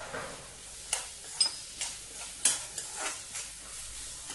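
Onions and tomatoes sizzling in oil and butter in a kadhai while a steel spoon stirs them, clicking and scraping against the pan several times.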